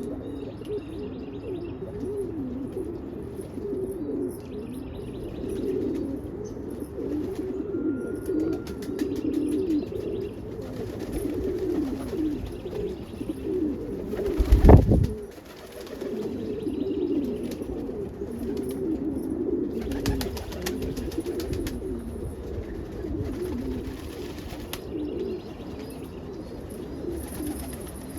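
Many domestic pigeons cooing continuously, their calls overlapping, with faint chirps above. A brief loud whoosh cuts through about halfway.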